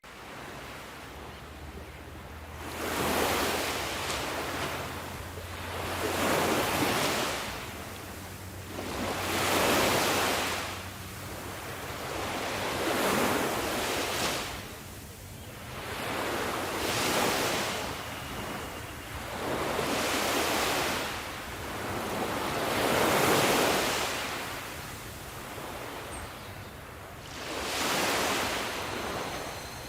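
Sea waves breaking and washing up a shore, each surge rising and falling away every three to four seconds in a steady rhythm.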